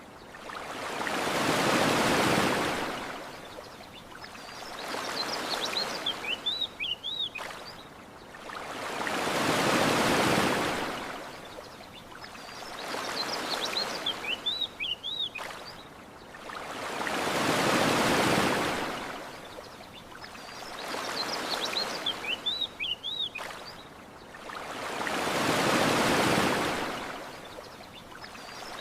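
Ocean waves washing onto a shore in slow, even swells, a bigger one about every eight seconds with a smaller one between. Short clusters of bird chirps come in the lulls between the swells.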